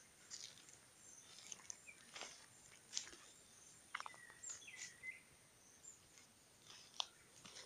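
Faint outdoor quiet with a few short whistled bird chirps about four to five seconds in, and scattered soft clicks.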